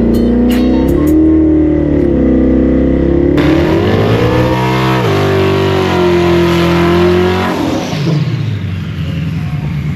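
Drag-racing car engine under hard acceleration, its pitch climbing and dipping, then dropping sharply about five seconds in like a gear change. It holds steady after that and then falls away near the end.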